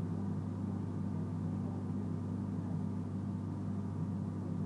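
Steady low hum inside a commuter train standing still at a station, its onboard equipment running while the train is stopped.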